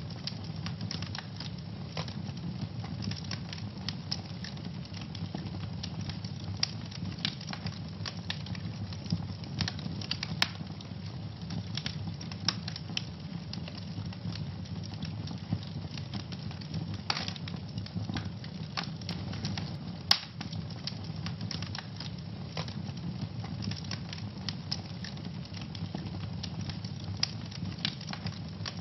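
Wood fire burning in a fireplace: a steady low rumble of flames under irregular sharp crackles and pops, with a few louder snaps, one about ten seconds in and one about twenty seconds in.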